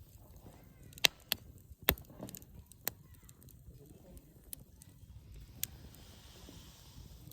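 Firewood burning in a Uniflame Nature Stove, crackling with sharp, scattered pops, the loudest about one and two seconds in, over a faint low rumble of the fire.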